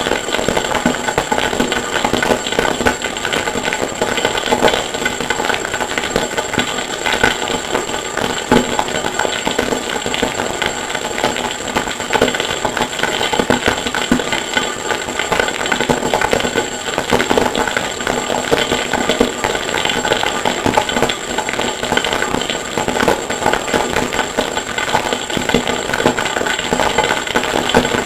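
Harsh noise music: an unbroken, dense wall of distorted, rapid clatter with a steady high whine over it, made from processed recordings of hammering in a blacksmith's forge.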